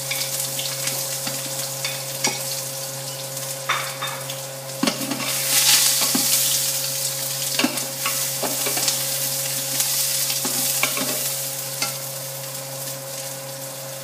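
Chile de árbol, onion and garlic sizzling as they fry in a tall stockpot, with scattered clinks and scrapes of a utensil stirring them against the pot.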